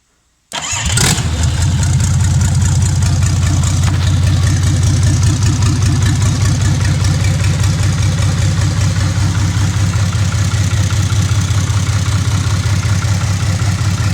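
Hino H07C naturally aspirated inline-six diesel starting about half a second in, with its glow plugs not connected. It catches almost at once and settles into a loud, steady idle.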